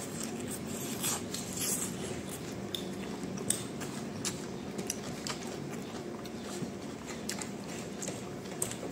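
Close-up chewing of a mouthful of food, with wet mouth sounds and scattered small crunchy clicks.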